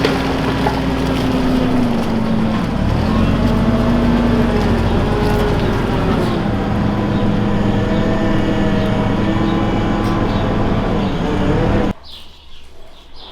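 Farm machine's engine running steadily, its pitch dipping and rising a little with the load, until the sound cuts off abruptly near the end.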